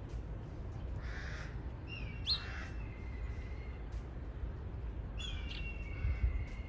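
Wild birds calling: a hoarse call about a second in, clear whistled notes with a quick upward flick at about two seconds, then a pair of long level whistles from about five seconds in. A low steady rumble runs underneath.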